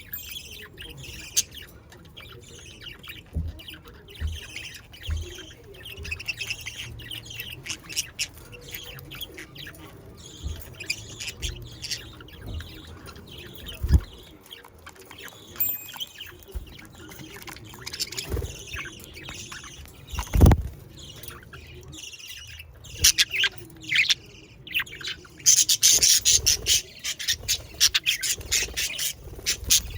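A flock of budgerigars chattering with many quick chirps and squawks, growing louder and denser in the last few seconds. A few dull thumps stand out, the loudest about two-thirds of the way through.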